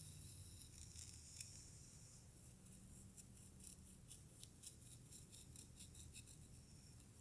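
Faint, crisp strokes of a hair-play tool through hair. In the middle comes a quick run of small ticks, about five a second.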